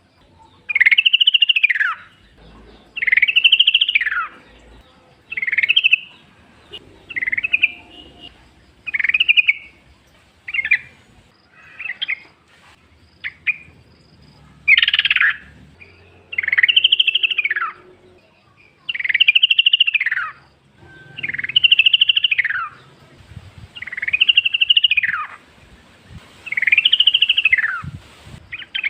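Yellow-vented bulbul calling over and over: a steady series of loud arched phrases, each rising then falling in pitch, about one every two seconds, with a run of shorter, choppier notes in the middle.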